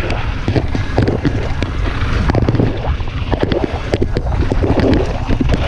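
Wind buffeting the microphone on a fast mountain bike descent, with the bike's tyres and frame rattling and clattering over the trail in quick knocks.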